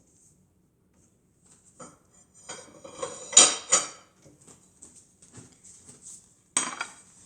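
Kitchen dishes and utensils clattering as they are handled and set down: a run of knocks and rattles, loudest about three and a half seconds in, with another sharp knock near the end.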